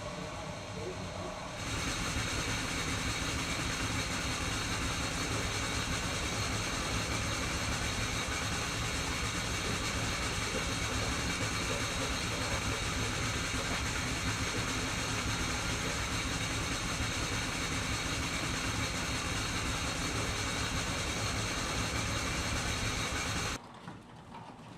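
A machine runs steadily with a constant hum and several steady whining tones, the sort of sound made by equipment draining oils and fluids from a scrapped car. It starts abruptly about one and a half seconds in and cuts off just before the end.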